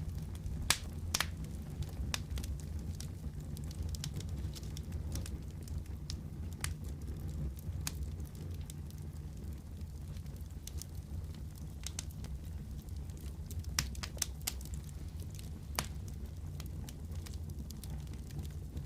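Wood fire burning in a fireplace: a steady low rumble of flames with sharp crackles and pops at irregular intervals, a few louder pops standing out.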